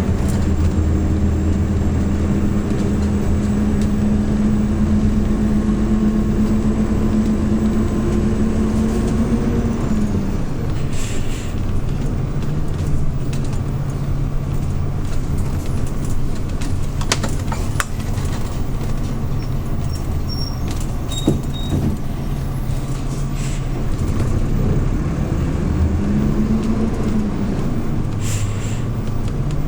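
Hyundai New Super Aero City CNG city bus engine, heard from inside the bus, pulling steadily, then easing off about ten seconds in and running at lower revs. Its revs rise briefly and fall again near the end. There are a couple of short hisses and a few sharp clicks.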